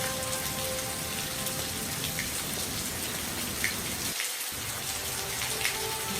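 Steady rain falling, an even hiss flecked with the small clicks of separate drops striking.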